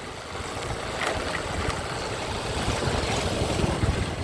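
Wind rushing over the microphone and road noise on a moving motorcycle, over the low rumble of a Honda CB Unicorn's engine; it grows louder about a second in.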